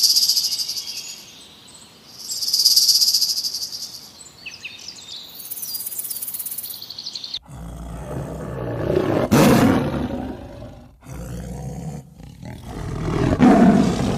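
High insect buzzing in three bursts. After a sudden cut, a large animal roars twice, deep and loud.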